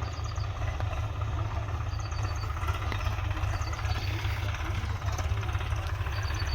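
Swaraj 744 tractor's three-cylinder diesel engine running steadily at a low, even speed.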